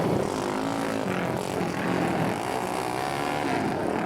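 Several flat-track racing motorcycle engines revving together, their pitches rising and falling against one another as the riders warm their tyres before the start.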